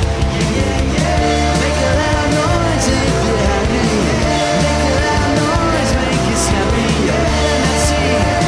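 A song played by a band, with a singing voice coming in about a second in.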